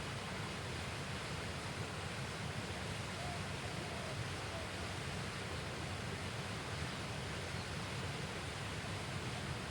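Steady, even rush of flowing river water, with a few faint short chirps over it.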